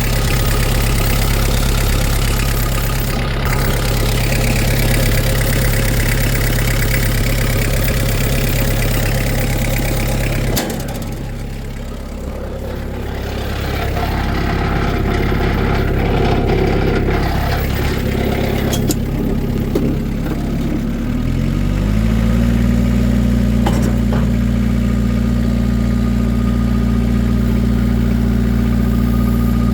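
Kubota V1505 four-cylinder diesel of a Vermeer S800TX stand-on skid steer running steadily. About ten seconds in, its sound drops and shifts for a while. About 21 seconds in, the engine speed rises and holds at a higher, steady note.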